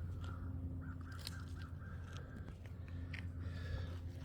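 Birds calling repeatedly outdoors over a steady low hum.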